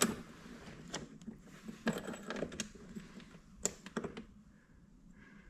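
Sharp clicks and light metallic clatter from hands working at a tractor's controls, about seven clicks spread irregularly over five seconds with the loudest at the start; the engine is not running, its diesel preheater switched on.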